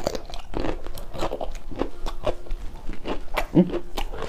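Close-miked chewing of a mouthful of raw cauliflower and chicken, with repeated crisp crunches and wet mouth sounds, several a second.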